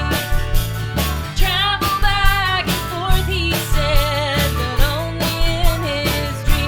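Americana band playing a country-style song. A drum kit keeps a steady beat under bass and acoustic guitar, while a lead melody slides and wavers above them.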